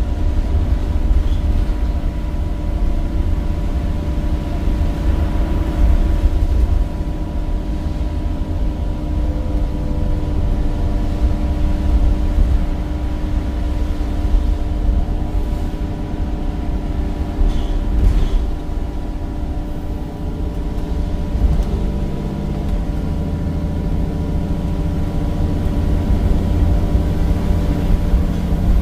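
Temsa Avenue bus's Cummins diesel engine and ZF gearbox under way, heard on board: a steady low rumble with a constant gear whine over it. The engine note shifts to a new pitch about three-quarters of the way through.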